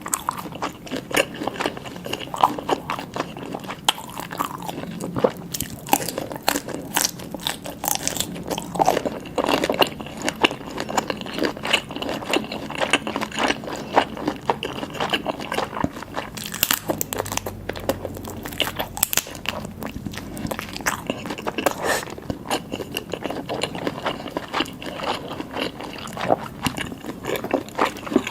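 Close-miked eating sounds: biting and chewing seafood (jumbo oysters and cocktail shrimp), with many short sharp clicks and crunches of mouth noise.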